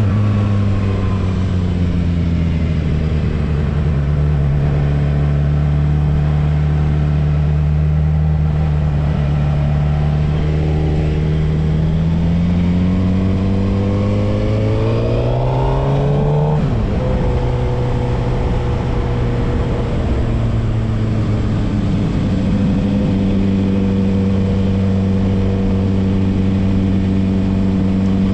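Suzuki GSX-R750 inline-four motorcycle engine running under way. The revs fall at first, hold steady, then climb for about five seconds and drop suddenly about sixteen seconds in, before settling at a steady cruise.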